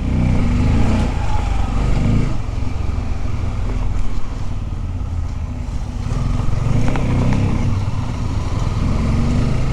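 Hero Xtreme 125R's single-cylinder 125 cc engine running on the move, its pitch rising and falling. The riders hear a light ticking in this engine, which they suspect comes from the timing chain.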